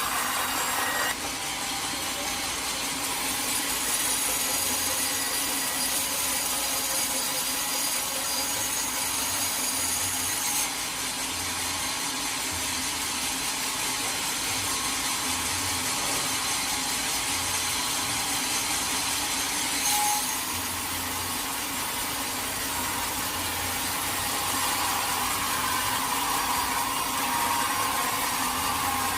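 Sawmill saw cutting through a teak log: a continuous sawing noise with a few abrupt changes in tone along the way.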